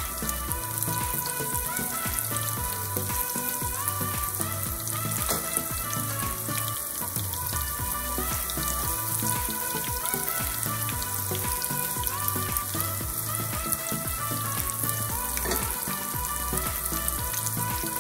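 Breaded sea robin (gurnard) pieces shallow-frying in hot oil in a skillet, giving a steady sizzle full of small crackles and pops. Background music with a repeating bass line plays underneath.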